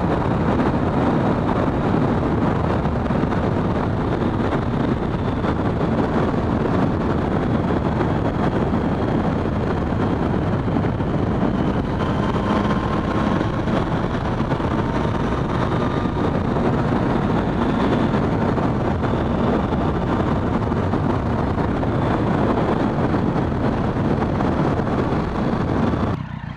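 Wind rushing loudly over a helmet microphone while riding a Triumph Street Triple at speed, the bike's three-cylinder engine running steadily underneath.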